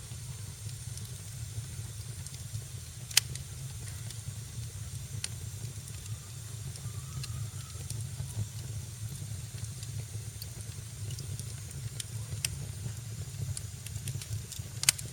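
Wood fire crackling in a fireplace: a steady low roar with scattered sharp pops, the loudest about three seconds in and just before the end.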